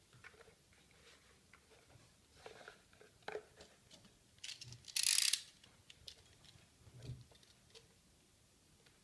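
Scattered light clicks and taps of objects being handled, with one short, louder scraping rush about five seconds in.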